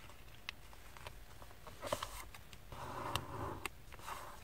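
A thin sheet of printer paper being folded and creased by hand: faint scattered crinkles and small ticks, with a short rustle of paper sliding about three seconds in.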